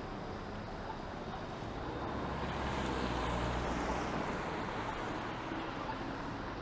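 Traffic passing on a wet street: a vehicle's tyre hiss and low engine rumble swell up about two seconds in and fade away again over the next few seconds.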